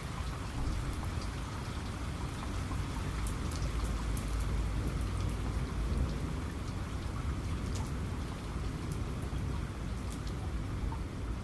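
Steady rain falling, with many small sharp drop ticks, and a low rumble of thunder rolling under it, strongest through the middle.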